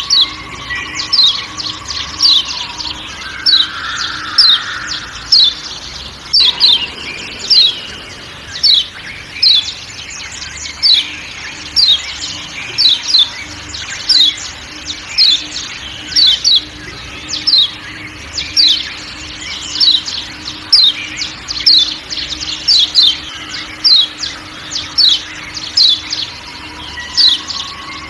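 Kecial kuning (yellow white-eye) giving its sharp 'ciak ciak' call over and over, short high chips about one to two a second, over a steady forest background.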